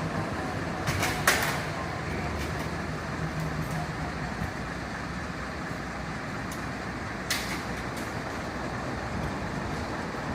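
Large truck's engine running steadily, with a sharp clank about a second in and a lighter one about seven seconds in.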